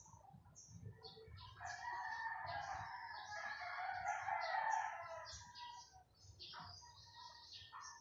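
Birds calling: one long call of about three seconds, loudest near its end, over continual high chirping.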